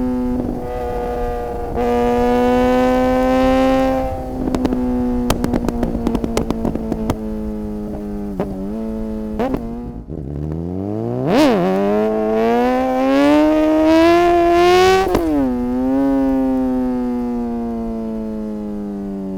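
Suzuki GSX-R600 inline-four motorcycle engine on the road. It holds a steady speed, then crackles and pops on the overrun, with two quick throttle blips. It then accelerates hard, rising in pitch through quickshifter upshifts that cut the revs briefly, and slowly winds down near the end.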